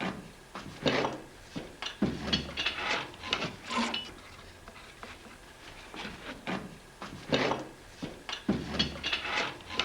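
Curved wooden saddle-frame blanks being handled against wooden templates: irregular rubs and scrapes of wood on wood, with a few dull knocks.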